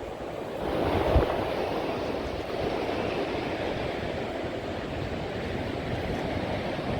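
Storm wind and sea surf: a steady rushing noise with no speech, swelling about a second in and then holding steady.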